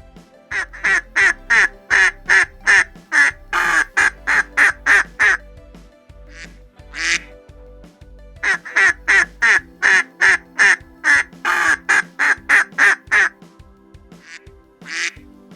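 An animal giving short calls in quick series, about three a second, in two long runs with a few single calls between, over steady background music.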